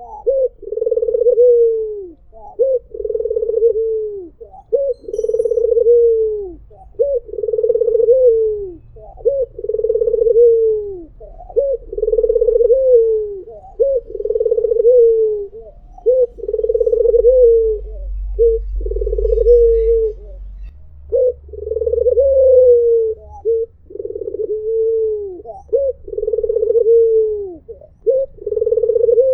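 White puter dove (an albino Barbary dove) cooing over and over, about one call every two seconds: each call is a short note followed by a long, held coo that falls at its end.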